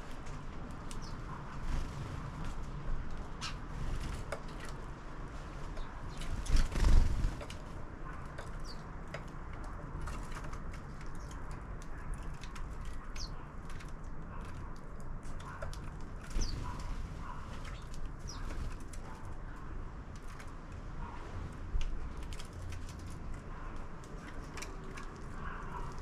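House sparrows at a bird feeder: scattered short chirps and wing flutters and small knocks over a steady low background rumble, with one louder thump about seven seconds in.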